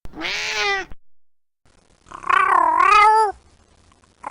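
Cat meowing: two drawn-out meows, a short one at the start and a longer, louder one about two seconds in that dips and rises in pitch.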